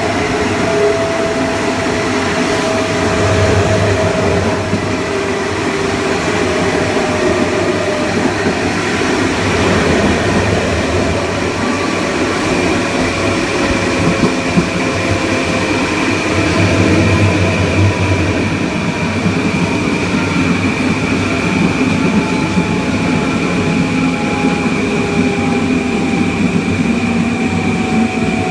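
Kawasaki M9 electric multiple unit heard from on board: the Mitsubishi (MELCO) IGBT-VVVF inverter and AC traction motors whine over steady rail and wheel noise. Several whine tones glide slowly downward, and a steady high tone comes in during the second half.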